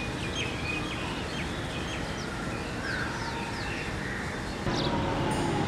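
Birds chirping, many short quick calls, over a steady background rumble of outdoor noise; about four and a half seconds in, the background noise suddenly gets louder.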